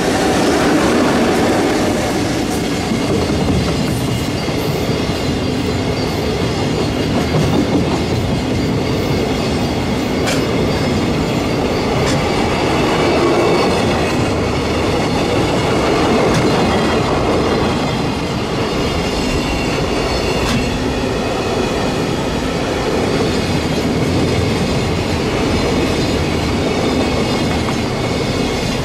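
A train passing steadily for the whole stretch, its wheels clattering over the rails with occasional sharp clicks.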